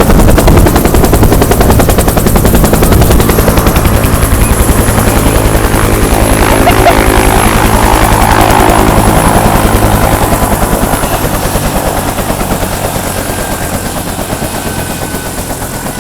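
Bell UH-1 Huey helicopter running close by: the two-blade main rotor's rapid, steady chop, with a thin high turbine whine above it. It is very loud and grows gradually quieter over the last several seconds.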